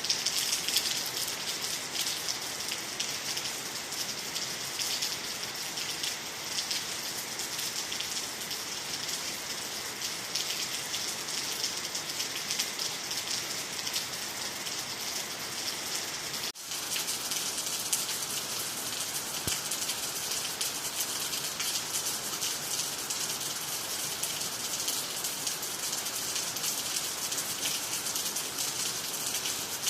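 Steady rain falling, a dense even patter of drops, with a momentary dropout a little past halfway.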